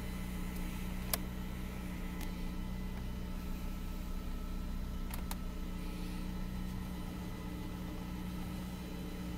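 Fiat Punto mk2 1.2 8-valve four-cylinder petrol engine idling steadily, with no revving. A sharp click about a second in and two lighter ticks around five seconds in.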